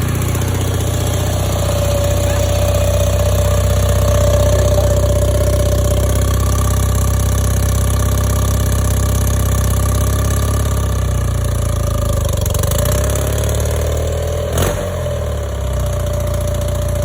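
1977 BMW R100/7's air-cooled flat-twin engine idling steadily after a cold start. One sharp click cuts through it near the end.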